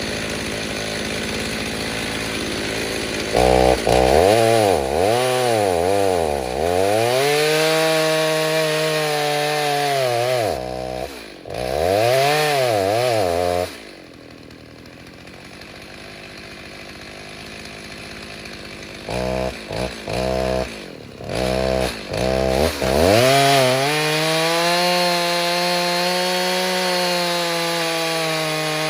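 Stihl 029 chainsaw with a freshly rebuilt 45mm top end, idling, then revving hard into a cut about three seconds in, its pitch wavering and dipping under load. It drops back to a quieter idle about halfway through, gets a few short blips of the throttle, then is run flat out into another long cut near the end.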